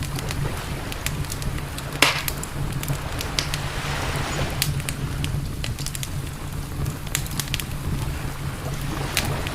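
Wood campfire crackling, with irregular snaps and pops and one sharp, louder pop about two seconds in, over a steady low rumble.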